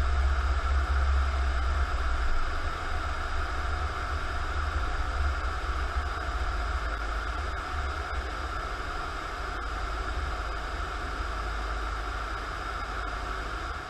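Steady engine drone and road noise heard inside an emergency vehicle's cab while it drives, with a heavy low rumble that eases slightly a couple of seconds in.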